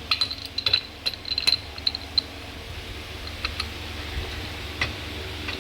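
Light metallic clicks and taps from a GM Celta starter motor's Bendix drive and shaft being worked by hand to check play in the bushing, some with a brief ring. They come in a quick cluster over the first two seconds, then only a few more.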